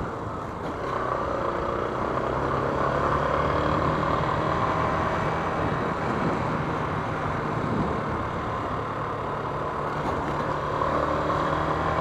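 Yamaha Fazer 250 motorcycle's single-cylinder engine running under way, its note drifting up and down with the throttle, mixed with steady rushing noise.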